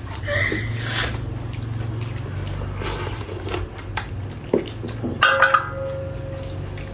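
Two people tearing into and eating whole roast chicken: wet squishy tearing and chewing with scattered clicks and clinks of dishes. A steady low hum runs underneath, and a brief pitched sound comes a little after five seconds in.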